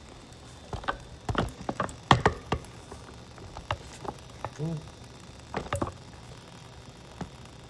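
Irregular series of light taps and knocks, clustered in the first few seconds with a few more later, and one short pitched sound a little past halfway.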